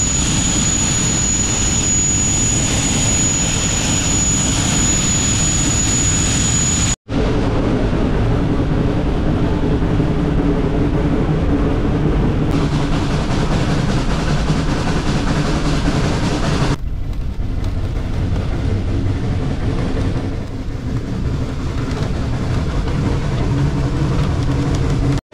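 Train running: a loud, steady rumble and rush, broken by two abrupt cuts, about seven seconds in and again about seventeen seconds in.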